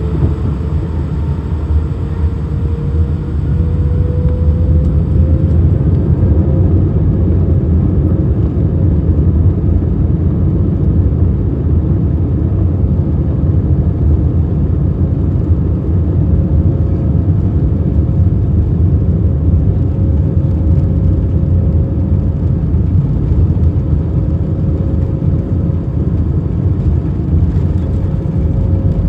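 Airbus A319 jet engines heard from inside the cabin over a loud low rumble, their whine rising in pitch over the first six seconds and then holding steady as thrust comes up for take-off.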